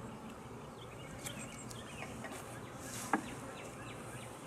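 Honey bees humming around an open hive, with birds chirping now and then and a single sharp knock about three seconds in.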